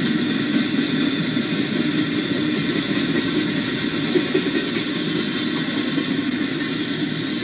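Freight train's double-stack container well cars rolling past: a steady, unbroken rumble of steel wheels on rail.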